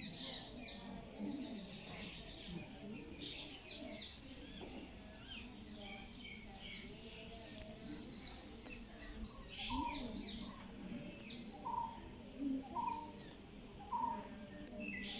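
Many birds chirping and calling in the trees. About nine seconds in there is a quick run of high chirps, and near the end a lower note repeats about once a second.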